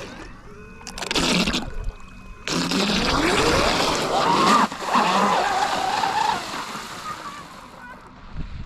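Pro Boat BlackJack 24 RC catamaran running on the water, its electric motor whining and rising in pitch as it speeds up, over a loud hiss of hull and spray in two stretches.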